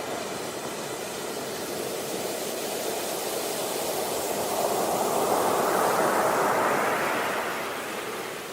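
Sea waves washing onto a beach: one wave swells about halfway through, breaks and washes in, then fades back near the end.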